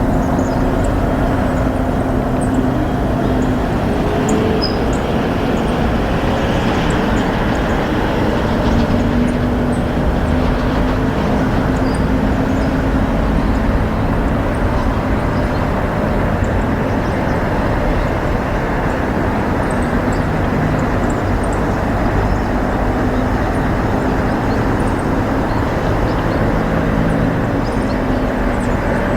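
A steady rumble of road traffic with a drifting engine hum, and faint short high chirps of small birds scattered over it.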